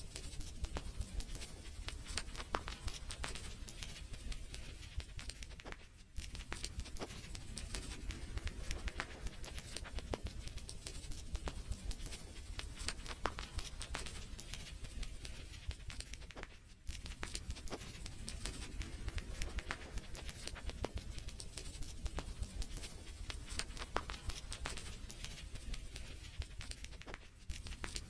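Wood fire crackling: a dense, irregular run of small pops and snaps over a steady low rumble. It thins out briefly three times, roughly every ten seconds.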